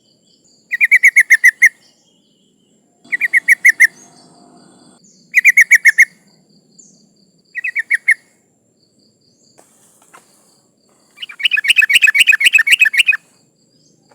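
Yellow-vented bulbul (trucukan) calling: short bubbly phrases of about eight rapid notes each, four in the first half, then a longer, denser chatter near the end. The uploader labels it a female calling to males.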